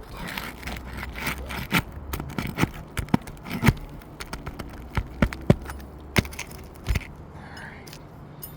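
A roof snake working under old asphalt shingles to pull roofing nails: scraping against the shingles with a string of sharp clicks and knocks as it catches and pulls at the nails.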